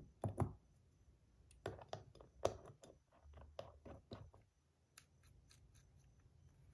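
Faint, irregular small clicks and taps of a fidget spinner and its buttons being handled, a dozen or so scattered through, busier in the first half.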